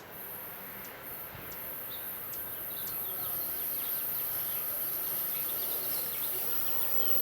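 Steadily growing noise of an approaching passenger train, still at a distance, with small birds chirping over it.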